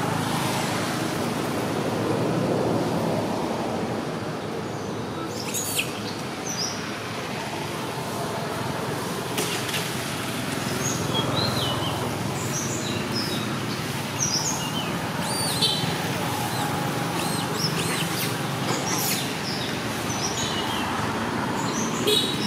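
Small birds chirping now and then, short quick calls, over a steady low background rumble.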